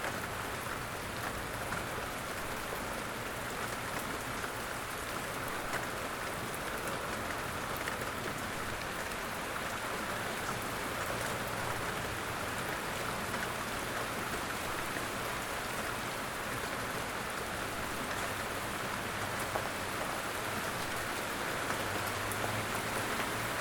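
Steady rain falling on a surface, with many small individual drop ticks scattered through it.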